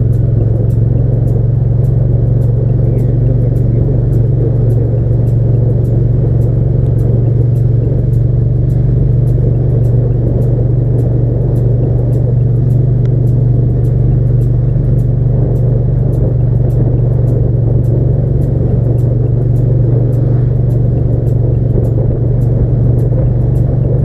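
Hyosung GT650's V-twin motorcycle engine running at a steady cruise, a constant low drone with road and wind noise over it.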